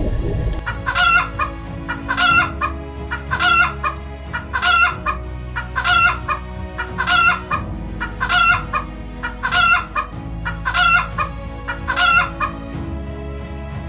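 Domestic chickens calling: about eleven short, identical squawking calls, evenly spaced a little more than a second apart, over a steady low background.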